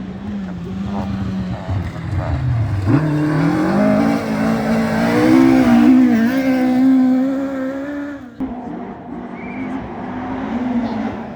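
Rally car engine revving hard as the car approaches. The pitch dips and climbs again through the gears, it is loudest around the middle, and it drops off sharply about eight seconds in.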